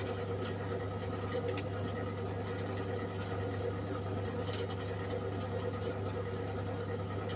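Steady electrical hum from a SIP MIG welder switched on but not welding, its transformer and fan running, with a couple of faint clicks.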